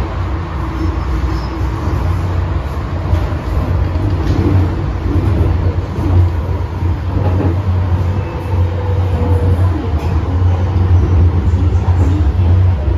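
Cabin noise of an MTR M-train (Metro-Cammell EMU) running on the Tsuen Wan Line: a steady, loud, low rumble of wheels and running gear with a haze of higher noise and a few faint clicks.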